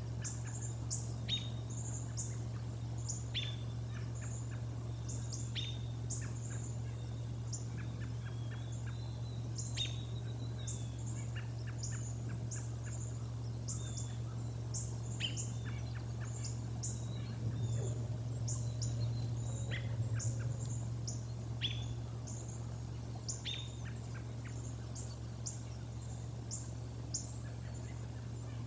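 Small birds chirping: short, high-pitched calls repeating every half second or so, with some lower, downward-sliding calls mixed in, over a steady low hum.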